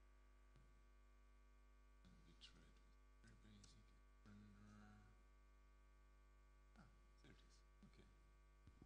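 Near silence: a steady electrical mains hum on the sound system, with faint voices in the distance now and then.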